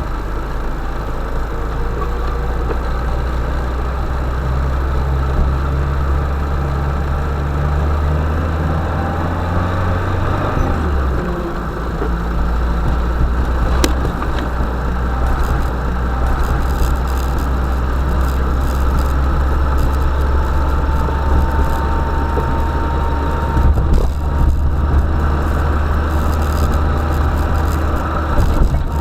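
UAZ-452 'Bukhanka' van's engine running steadily with a low drone, its pitch dropping about a third of the way through as the revs fall. A single sharp click is heard in the middle.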